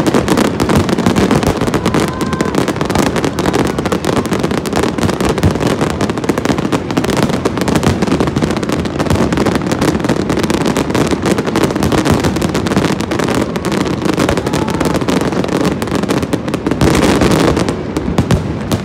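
A fireworks display going off without a break: a dense, loud barrage of crackles and bangs.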